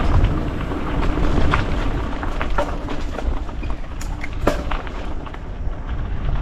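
Mountain bike rolling along a dirt trail: a steady rush of tyre noise and wind rumble on the microphone, with scattered sharp clicks and rattles from the bike.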